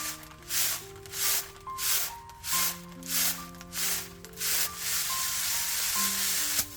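Repeated rubbing or scraping swishes, roughly three every two seconds, that merge into one long continuous rub for the last couple of seconds, over background music with sustained notes.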